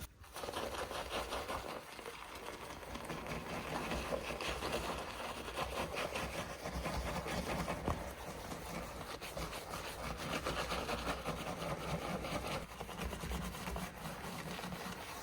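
Soft brush scrubbing back and forth over a car's painted body, a steady rapid rubbing, loosening the grime after degreaser has been left to soak. A low steady hum runs underneath.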